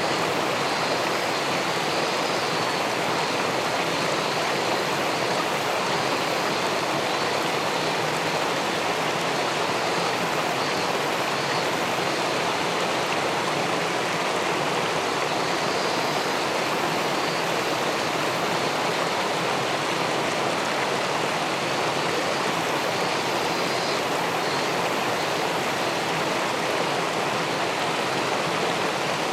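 River water spilling over a weir into the pool below, a steady, unbroken rushing.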